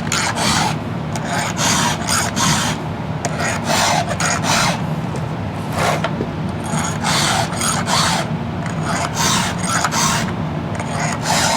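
Round file being pushed by hand across the cutters of a chainsaw chain, a rasping stroke repeated in a steady run, often two strokes close together.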